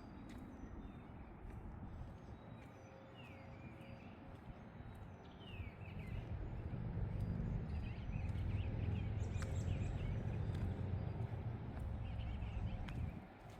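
Small birds chirping in short falling notes, over a low rumble that swells about halfway through and cuts off suddenly near the end.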